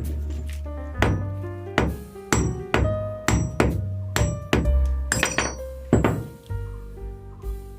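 About a dozen hammer blows on metal ceiling-fan parts, irregularly spaced, each ringing briefly, over background music.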